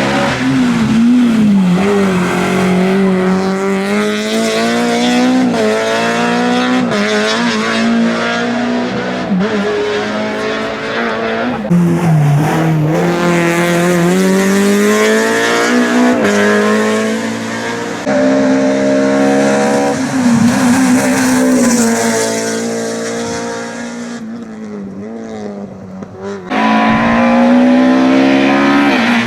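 Peugeot 306 A7 rally car engine driven hard, its note climbing under acceleration and dropping sharply at each gear change. Near the end it eases off to a quieter, lower note for a couple of seconds, then comes back on full throttle abruptly.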